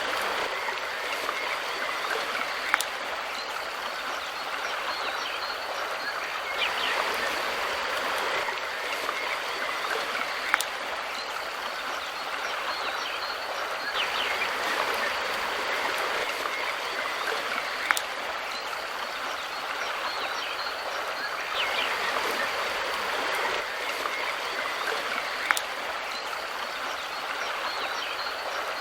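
Mountain river water rushing and burbling steadily over stones, with a sharp click about every seven to eight seconds.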